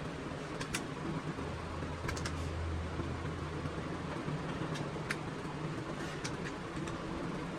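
A machine running with a steady low hum, with scattered sharp clicks or taps about once a second.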